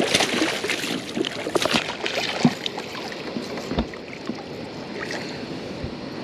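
Handling noises in a small fishing boat: rustling and scattered knocks against the boat, busiest in the first two seconds, then a few single knocks.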